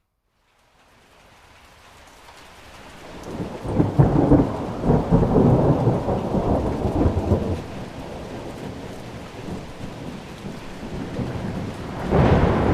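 Rolling thunder over steady rain: the rumble builds from near silence to a loud crackling peak about four seconds in, then slowly dies away, and a second thunderclap breaks near the end.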